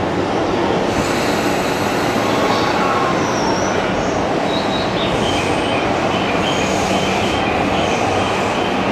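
Yamanote Line E235-series electric commuter train pulling out along the platform: steady wheel and running noise with thin, high wheel squeal from about a second in.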